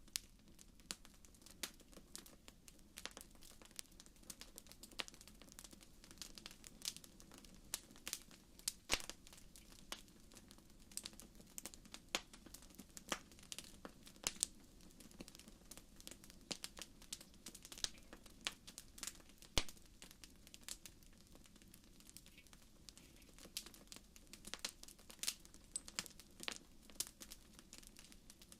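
Wood fire burning in a fireplace, crackling with irregular sharp pops and snaps over a faint low hum.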